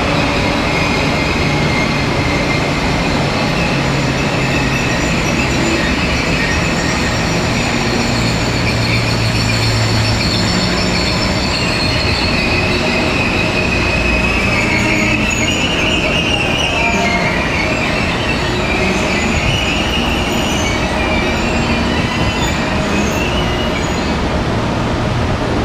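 SR 120000-series high-speed electric train running, heard from inside the carriage: a steady loud rumble of wheels and rails with a high, wavering squeal over it that shifts in pitch about halfway through.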